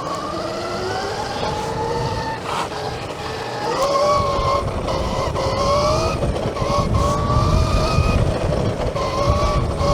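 Electric dirt bike riding at speed: the motor's whine climbs in pitch over the first few seconds, then rises and dips as the throttle changes, over the low rumble of wind and tyres that grows louder about four seconds in.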